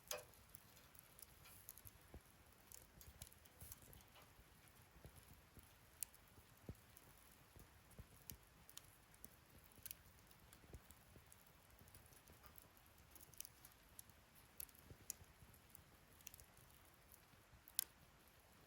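Wood fire burning in a fire stand, crackling quietly with sparse sharp pops, one louder pop right at the start and another near the end.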